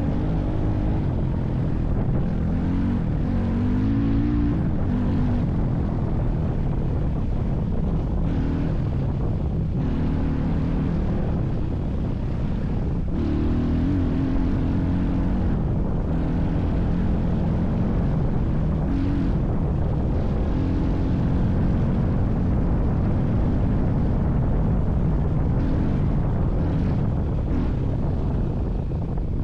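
Vehicle engine running steadily under load, its pitch rising and falling in places with the throttle.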